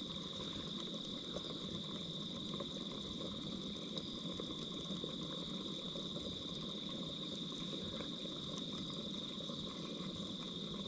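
Evening bush ambience: a steady, high insect chorus drones on one unbroken pitch over a low, even background hiss.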